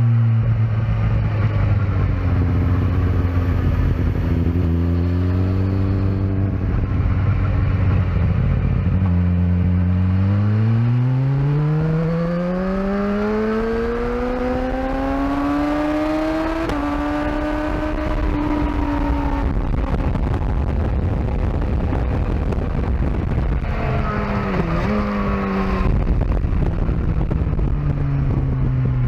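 Sport motorcycle engine heard onboard on a racetrack. It holds a steady note, then the revs climb for several seconds before the engine note fades under wind rush, and a steady engine note returns near the end.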